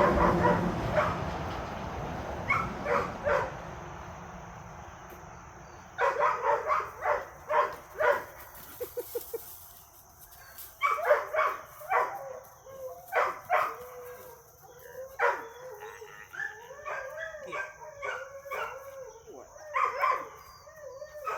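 Young dogs barking and vocalizing in rough play: clusters of short barks from about a quarter of the way in, then a long run of wavering, whiny yips and howl-like play noises in the second half.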